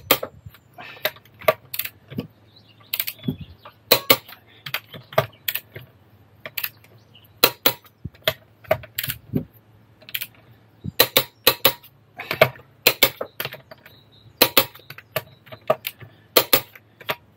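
Irregular sharp metallic clicks and clinks of hand tools being worked and handled, sometimes several in quick succession.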